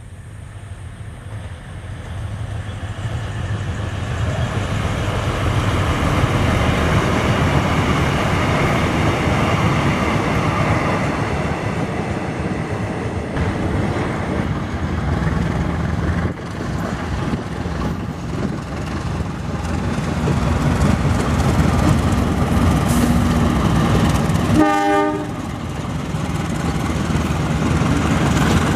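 A train passing close by: a steady rumble and clatter of wheels on the rails that grows louder over the first few seconds and then holds. A brief blast of the train horn sounds near the end.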